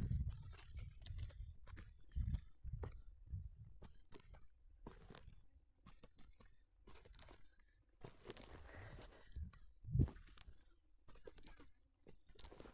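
Irregular clicking and crunching footfalls along a dirt trail, with a few low thumps, the strongest about ten seconds in.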